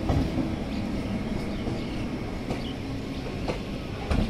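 MEMU electric local train coaches rolling past, a steady rumble of wheels on rails with a faint hum, broken by a few sharp clicks.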